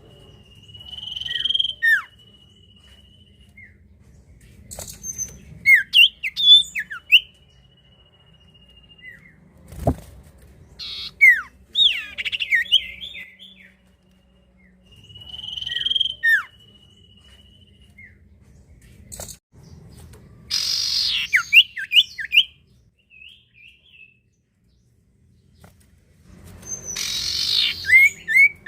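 Common iora (cipoh) singing: a long held whistle, then quick down-slurred whistled notes and chattering phrases, with harsh rasping calls twice near the end.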